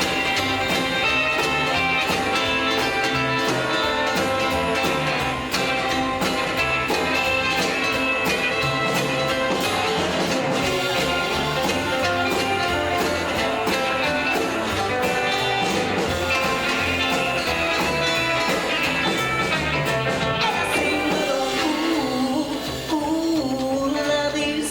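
A live rockabilly band playing a song with a singer, over a steady beat.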